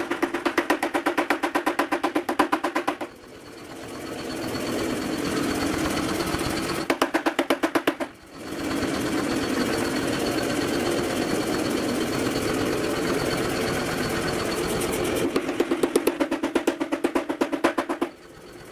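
Mechanical power hammer running, with three runs of rapid, even blows at about nine a second and the machine turning over steadily between them.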